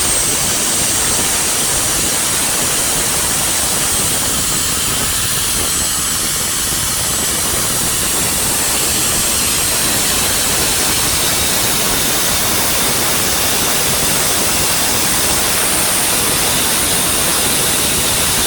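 Motorboat under way: a steady, loud rush of engine and wind noise with a faint high whine.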